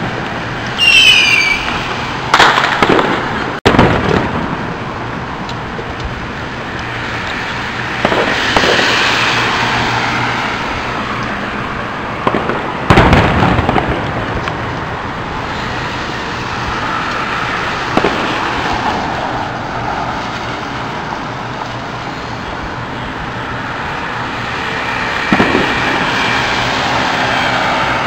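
Fireworks display: a whistling firework with a falling pitch about a second in, then booming bursts spaced several seconds apart, the loudest about thirteen seconds in, over steady background noise.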